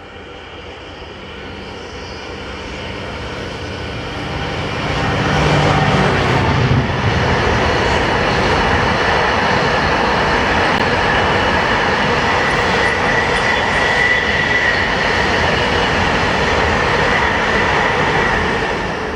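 Loaded Direct Rail Services freight train passing. The diesel locomotive's engine drone builds and goes by about six seconds in, followed by the steady rumble of the loaded wagons rolling past, with a faint high wheel squeal in the second half. It eases off near the end.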